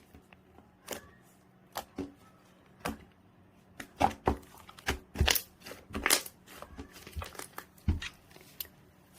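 Two-tone slime being squeezed and stretched by hand, giving irregular sharp clicks and pops that come thickest in the middle.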